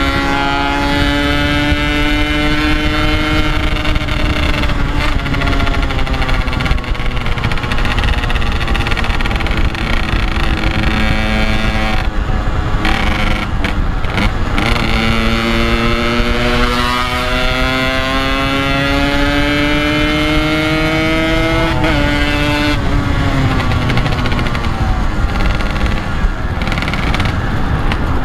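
Yamaha RX-King's two-stroke single-cylinder engine under way, heard from the rider's seat, with wind rushing over the microphone. Its pitch falls off, then climbs steadily for several seconds and drops suddenly as at an upshift, before pulling again.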